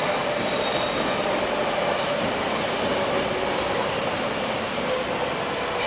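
MTR CNR Changchun C-train electric multiple unit running past at low speed with a steady rumble. Its wheels click in pairs about every two seconds, and a motor whine sinks slightly in pitch as the train slows on arrival at the station.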